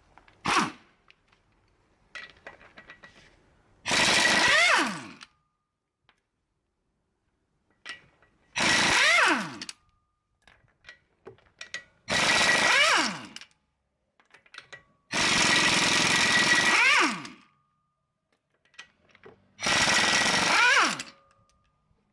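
TONE air impact wrench hammering on the wheel's lug nuts in five bursts of one to two seconds, each ending in a falling whine as the air motor spins down after the trigger is released. A short blip from the wrench comes about half a second in.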